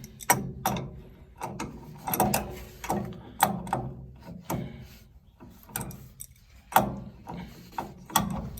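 A wrench working loose the fittings of a gas water heater's burner assembly: a run of irregular metallic clicks and knocks, one or two a second.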